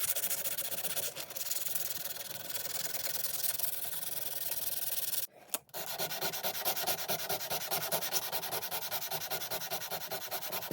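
Hand sanding or scrubbing of the restored cobbler hammer: quick, even rubbing strokes of abrasive against the workpiece, broken by a brief dropout about halfway through.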